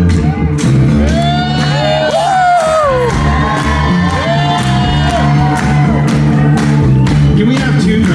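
Live rock band playing, with a steady bass line and drum hits, while audience members whoop and shout over the music.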